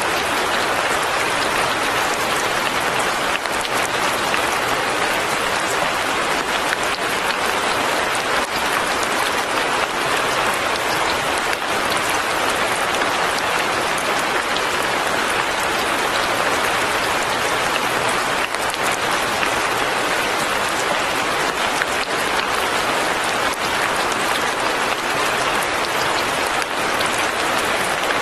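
Steady rain falling, a dense even patter of drops on surfaces, with no letup.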